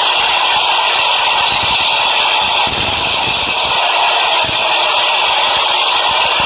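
Train running past or under way: a steady, loud rattling noise.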